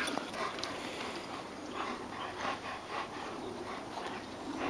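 A dog panting close by, in a run of short, soft breaths.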